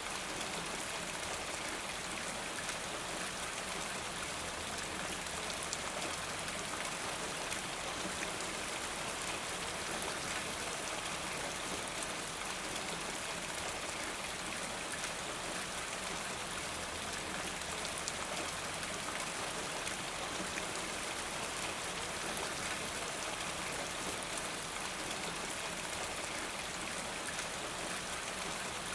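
Steady rain falling, an even patter of drops that holds constant throughout.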